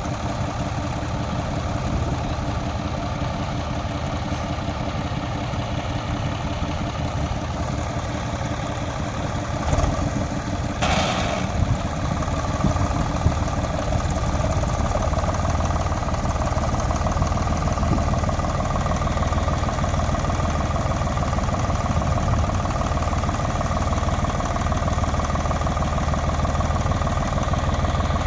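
Tractor's diesel engine running steadily, its note growing louder and fuller a little before the middle and holding there. A short burst of noise breaks in about eleven seconds in.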